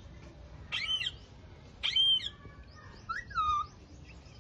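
Alexandrine parakeet calling: three short squawking calls about a second apart, the last one rising and falling in pitch.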